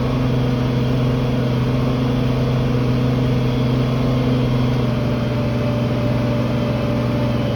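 Farm tractor's diesel engine running steadily under load while pulling a cultivator: a constant low drone that holds the same pitch throughout.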